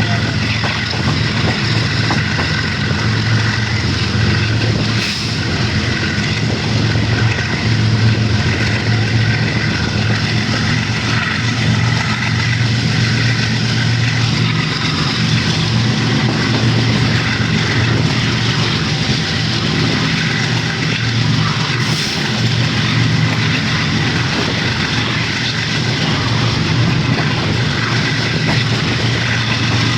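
Pakistan Railways GEU40 diesel-electric locomotive's engine running with a steady, loud, low drone.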